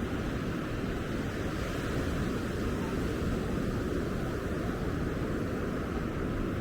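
Steady rushing noise of ocean surf on the beach, mixed with wind on the microphone; it stays even, heaviest in the low end, with no distinct events.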